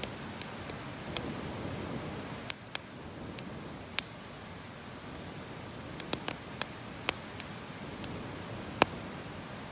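Wood campfire crackling: sharp, irregular pops and snaps over a soft steady hiss.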